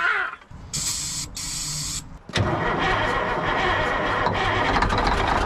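1962 Kenworth W900A truck engine that has just started after days of slow cranking: a hiss with a low hum first, then a sharp knock about two seconds in and the engine running steadily and loud.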